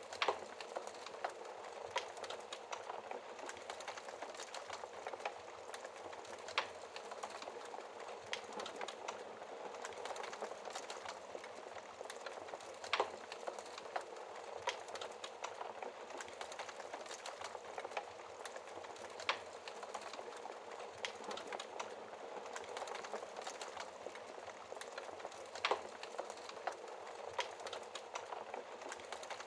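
Wood fire burning with a steady hiss and constant small crackles, with a sharper, louder pop every few seconds.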